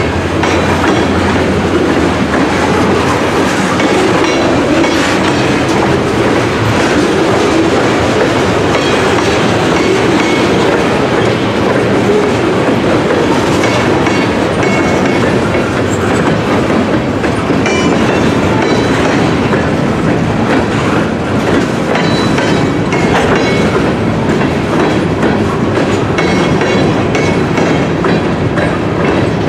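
CSX freight train's tank cars and covered hoppers rolling past close by: steel wheels clacking steadily over the rail joints over a constant rumble, with brief high wheel squeals now and then.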